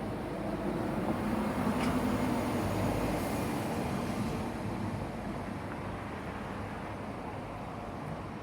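A heavy vehicle passing in city ambience: a low rumble that swells to a peak a few seconds in, then slowly fades.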